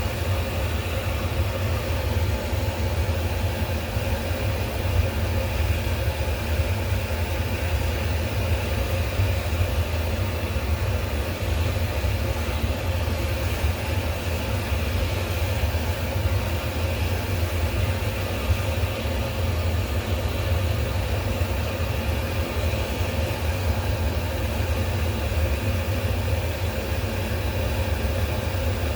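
Steady low mechanical hum that runs unchanged throughout.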